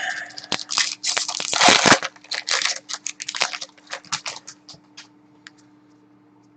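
Hockey card pack wrapper being torn open and crinkled: a dense burst of crinkling for the first couple of seconds, then scattered crackles that thin out and stop.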